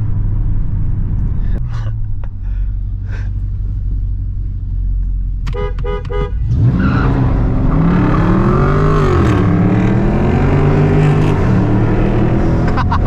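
Straight-piped Dodge Scat Pack's 6.4-litre HEMI V8 cruising low and steady. A car horn toots three short times about six seconds in. The engine then goes to full throttle, loud, its pitch rising and dropping through the gear shifts as the car launches and the tires hook.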